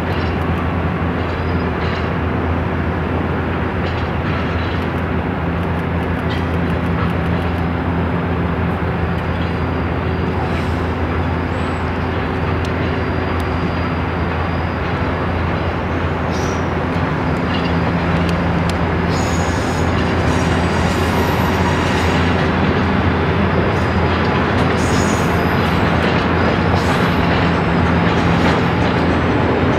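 A train rolling by at close range: a steady rumble of wheels on rail with low, steady machinery tones, growing slightly louder in the second half, when faint high wheel squeals come in.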